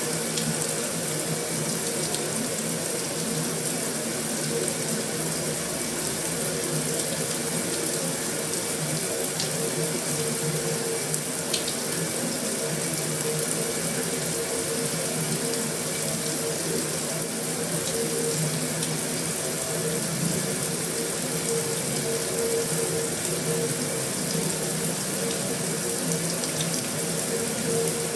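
Heavy rain falling on a metal roof: a steady, dense hiss with no let-up, broken by a few faint ticks.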